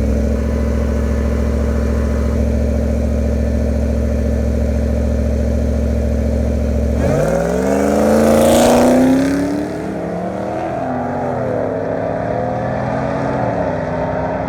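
Two modified pickup trucks racing: engines held at steady high revs for about seven seconds, then launching with the engine pitch climbing through the gears, loudest a second or two after the launch, then dropping in level as they pull away.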